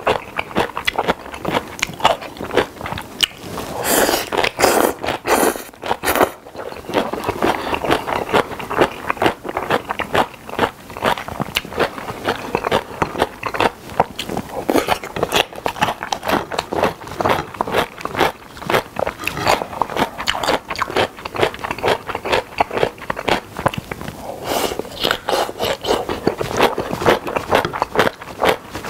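Close-miked wet chewing and mouth sounds of a person eating spicy whelk and somen noodle salad, with many quick clicks and chopsticks scraping the plate. The sounds grow louder about four seconds in and again near the end.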